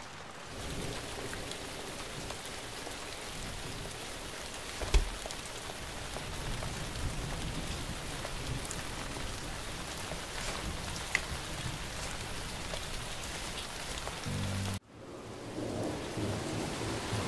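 Steady rain falling, with a single dull thump about five seconds in; the rain cuts out abruptly for a moment near the end, then starts again.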